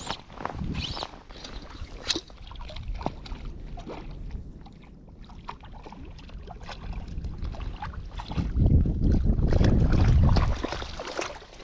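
Water sloshing with small irregular splashes, then wind buffeting the microphone in a loud low rumble for a couple of seconds, starting about eight seconds in.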